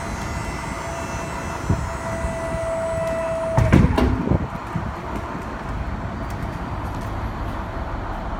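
Maxon tuckunder hydraulic liftgate running, its pump motor giving a steady whine that stops about three and a half seconds in with a burst of metal clanks from the platform. The truck's diesel engine idles beneath.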